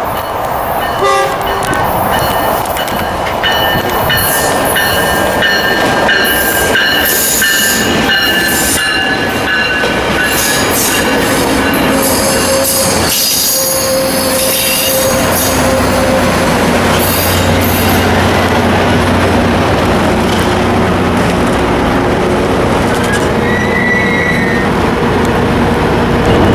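A train at a station, with a horn sounding and wheels squealing as it runs through, over a busy clatter of rail clicks. From about halfway in, a steady low hum of a diesel locomotive's engine joins in.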